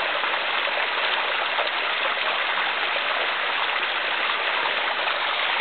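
Small mountain waterfall splashing steadily into a pool, an even rushing hiss of falling water.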